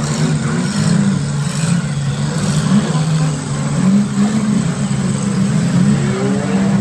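Demolition derby cars' engines revving, the pitch rising and falling as the cars push and ram each other in the mud.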